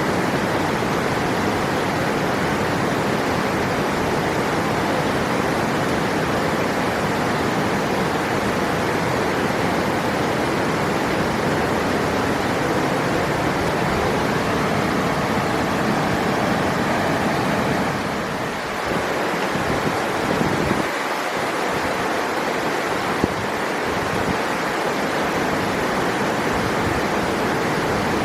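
River water rushing in a steady, even wash of sound, dipping briefly about two-thirds of the way through.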